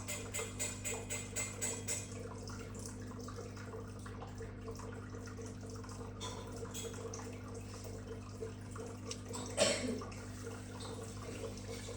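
Water trickling and dripping in a turtle tank over a steady low hum, with quick regular ticks, about four a second, for the first two seconds. There is one brief louder splash near the end.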